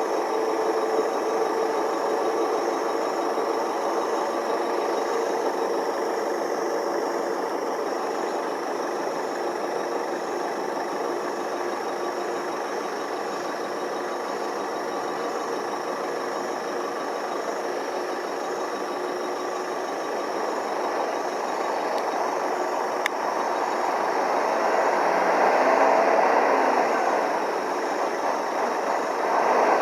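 Truck engines running at low speed with steady road noise, growing louder near the end as a truck comes closer.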